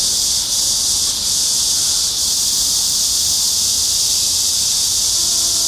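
A chorus of cicadas makes a steady, loud, high-pitched hiss that runs on without a break.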